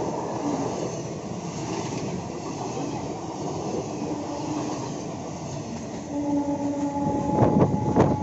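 Passenger train coaches rolling past close by, a steady rush and rumble of wheels on rail. In the last two seconds it grows louder, with wheel knocks over the rail joints and a held pitched tone.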